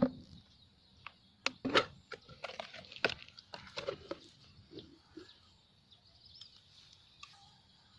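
A bird giving short, sharp chirps and clicks at irregular intervals, most of them in the first half, growing sparse after about five seconds.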